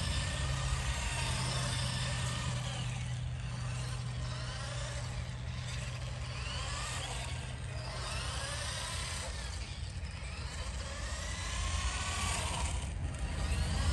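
Brushed electric motor and four-wheel-drive gear train of a small RC truck whining as it is driven, the pitch rising and falling again and again with the throttle.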